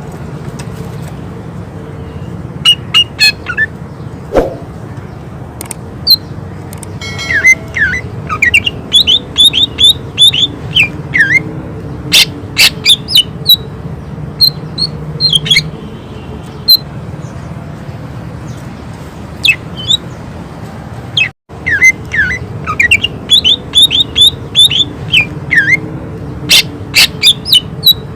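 Cucak ijo, a green leafbird, singing loud rapid runs of short, sharp whistled notes in quick clusters, with pauses between bursts, over a low steady hum.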